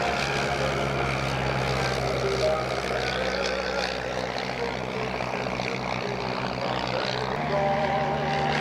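De Havilland Tiger Moth biplane's piston engine and propeller running steadily, with a change in its tone about seven seconds in.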